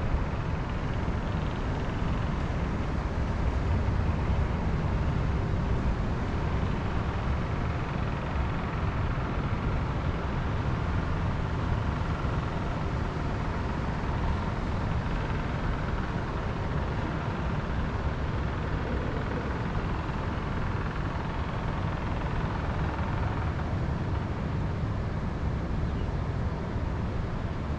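Wind blowing steadily outdoors, a low rumble with a hiss above it.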